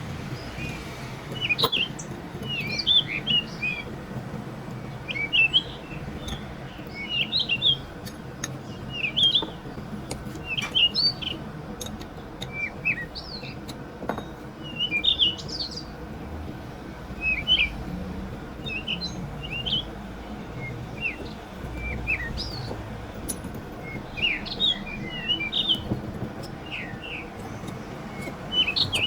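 Small birds chirping: short clusters of high chirps every second or two, over a steady low background hum, with a few faint clicks.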